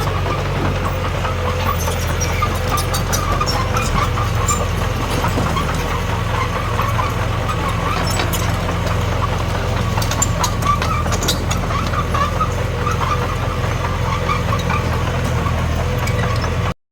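Komatsu D21P bulldozer's diesel engine running steadily under work, with scattered light clicks and clanks. The sound cuts out briefly near the end.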